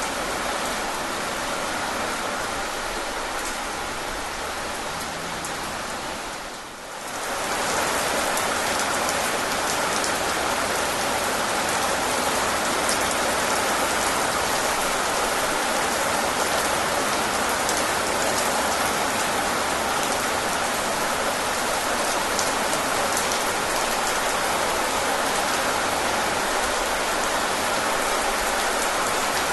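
Steady rain falling, with a dense even hiss and faint ticks of individual drops. The sound dips briefly about seven seconds in, then comes back slightly louder.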